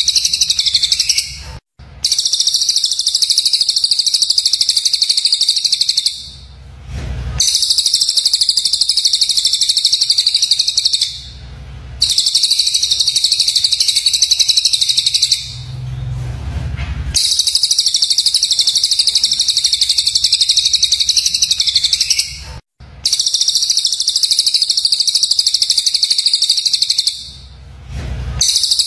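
Recorded songbird training track: loud, rapid, harsh high-pitched chattering song in long unbroken runs of several seconds, each cut by a brief pause, about five pauses in all.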